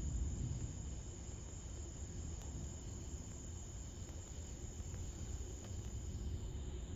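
Crickets chirring steadily at night, a continuous high-pitched trill, over a low rumble that swells briefly about the start.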